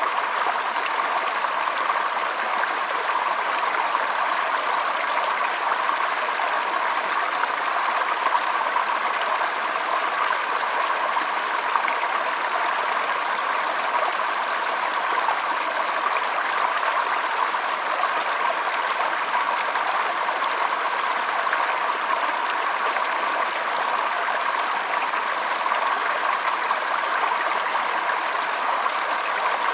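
Shallow stream flowing and trickling, a steady, even rush of water without a break.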